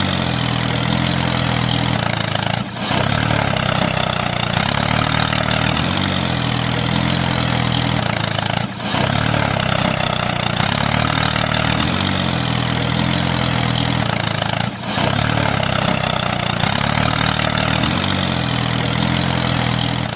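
Tractor engine idling steadily. It is a repeating sound clip with a brief dip in level about every six seconds, where the loop restarts.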